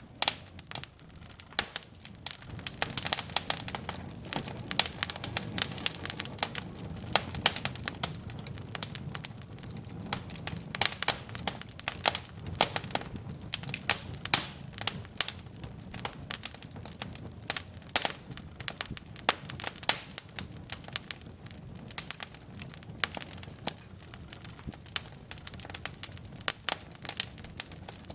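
Wood fire burning in a fireplace: logs crackling and popping in irregular sharp snaps, several a second, over a low steady rumble of flame.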